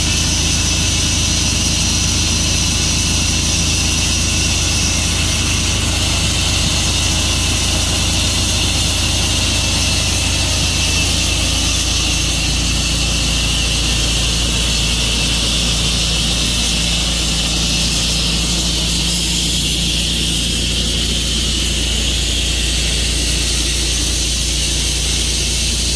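Tru-Cut sawmill running steadily while milling a maple log: a constant engine hum under a steady high hiss from the saw. The engine note shifts slightly about eleven seconds in.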